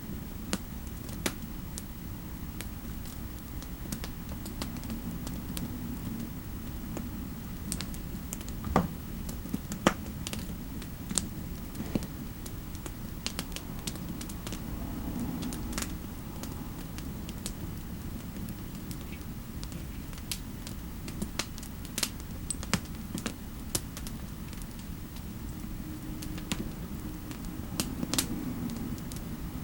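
Typing on a computer keyboard: irregular, scattered key clicks with a few sharper taps, over a steady low fireplace ambience.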